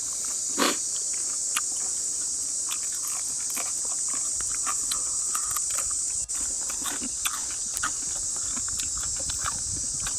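Steady high-pitched chorus of insects, with scattered small clicks and knocks and one short louder sound about half a second in.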